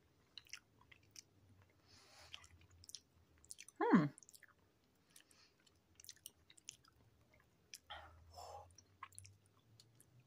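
Close-up mouth sounds of a person chewing a soft pickled quail egg: faint wet clicks and smacks, with a short falling vocal hum about four seconds in.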